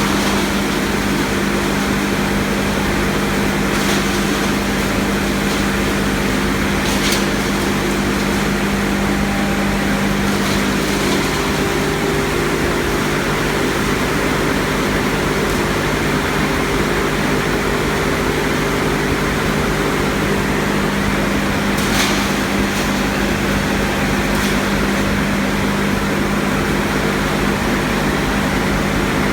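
A 55 kW wood hammer crusher running steadily, with a loud even rushing noise over a constant low hum. A few brief sharp cracks break through, about five in all.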